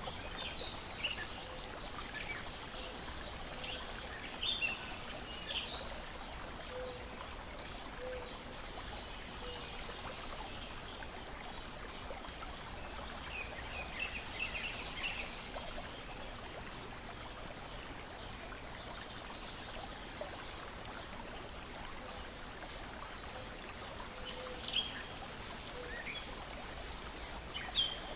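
Lake water lapping and trickling in a steady wash, with bird chirps and calls near the start, again about halfway through, and near the end.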